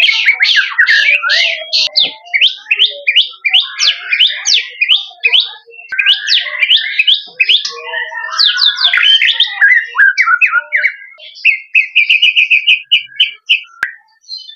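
White-rumped shama singing in full song: a fast, varied run of whistled sweeps and trills, with a quick string of repeated short notes near the end.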